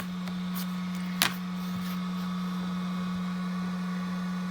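Steady low electrical hum at one pitch, with a single sharp click about a second in.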